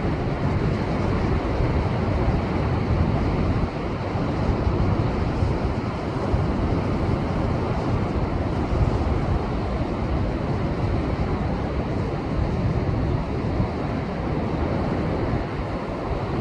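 Rough post-typhoon surf surging against a rocky seashore: a loud, unbroken rush and rumble of water with wind buffeting the microphone.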